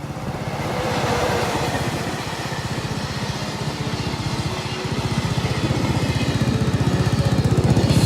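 Honda CB125T parallel-twin motorcycle engine running, its exhaust giving a steady, even pulsing beat through a cut-down stock muffler fitted with an aftermarket slip-on silencer. The beat swells slightly about a second in and grows a little louder toward the end.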